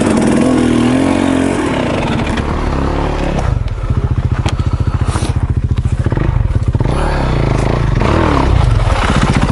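KTM 300 XC two-stroke dirt bike engine pulling under throttle, then dropping after about three and a half seconds to a low, even putting at low revs, with a short rev near the end.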